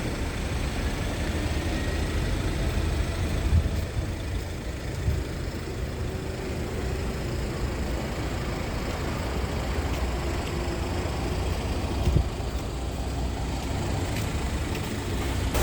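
Scania R tractor unit's Euro 6 diesel engine idling steadily, with a few brief knocks.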